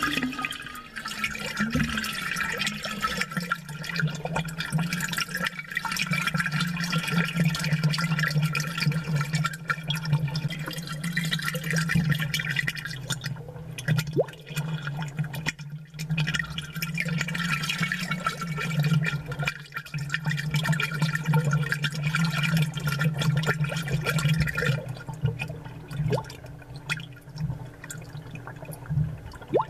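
Amplified aquarium sound: air bubbles rising and gurgling in the water, with drips and small splashes, over a steady low hum. The bubbling thins out near the end while the hum carries on.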